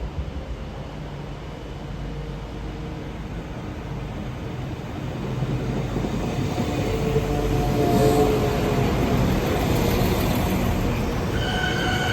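Transport for Wales passenger train running on the track: a low rumble that grows louder about halfway through, with a steady whine on top as it comes close.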